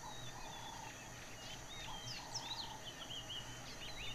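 Several wild birds calling, with many quick chirps and sweeping whistled notes, and a short buzzy note that repeats about every second and a half, over a faint steady low hum.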